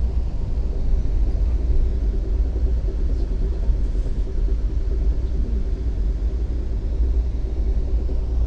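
Passenger train running at speed, heard from inside the coach: a steady low rumble with a faint steady hum over it.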